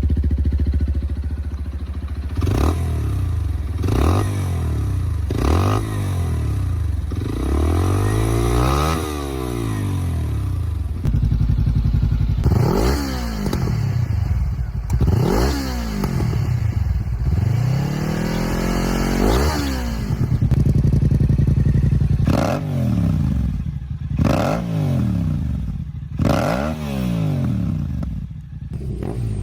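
A series of motorcycle engines, single-cylinder up through four-cylinder, each revved again and again, their pitch rising and falling with every blip of the throttle. The revs are short and quick at first and become longer, higher sweeps later, and the engine note changes character twice along the way.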